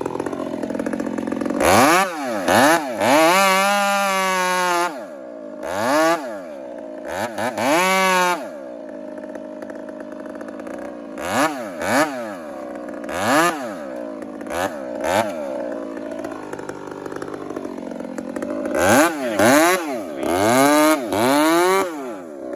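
Chainsaw idling and being throttled up again and again: a series of short revs that rise and fall, with a few longer runs held at full speed.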